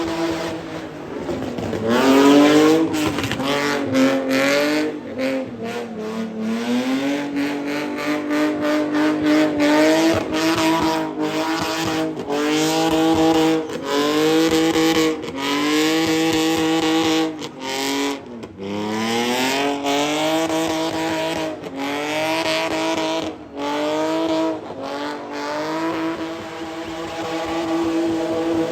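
BMW E46 325i's straight-six, with headers and a straight-piped exhaust, revving hard and held at high revs while drifting. Its pitch drops sharply and climbs back several times, the note is chopped by many quick cuts, and tyres squeal under it.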